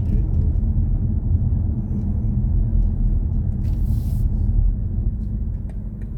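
Steady low road and tyre rumble of a BMW i4 M50 electric car on the move, with no engine note, and a brief hiss about four seconds in. The rumble eases a little near the end.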